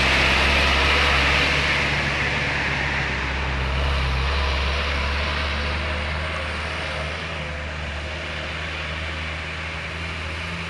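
Heavy diesel engine running with a steady low drone and road noise, fading gradually as it moves away.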